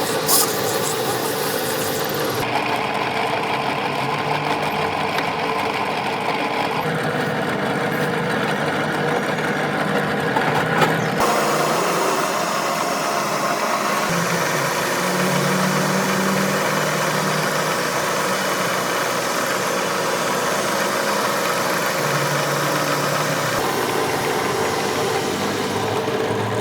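An engine or motor running steadily, its tone shifting abruptly several times, with a short sharp click near the start and another about eleven seconds in.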